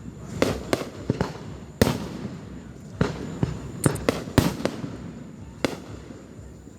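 Fireworks bursting overhead: about a dozen sharp bangs at uneven intervals, each followed by a short echoing tail, with a quick cluster of pops about four seconds in.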